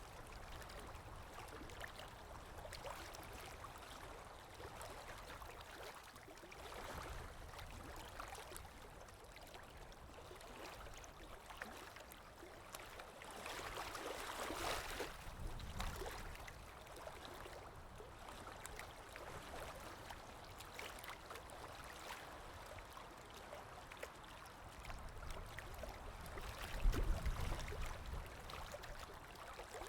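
Water lapping, with wind blowing: a steady ambience that swells and eases every few seconds and has a brief low rumble near the end.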